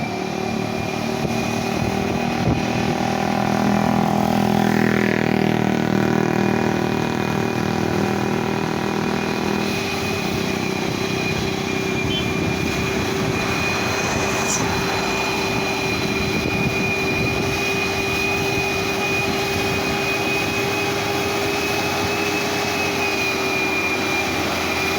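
Road vehicle engines running, loudest about four to five seconds in as a vehicle passes with a bend in pitch. From about ten seconds in, a steady engine drone carries a thin high whine.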